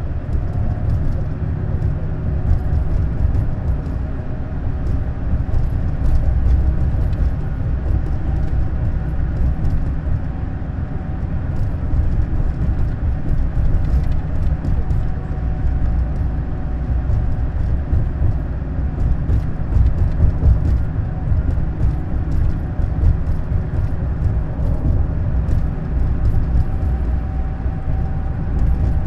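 Neoplan Skyliner N 1122/3C double-deck coach under way, its engine and road noise a steady deep rumble. Many small rattling clicks run through it.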